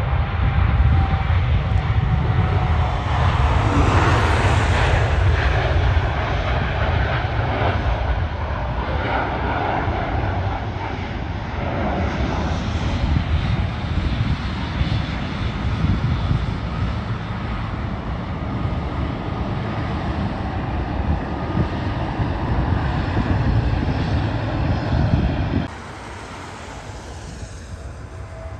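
Loud jet engine noise of an airliner passing close by, a dense rush heaviest in the low end that swells for the first few seconds, then cuts off abruptly to a quieter background near the end.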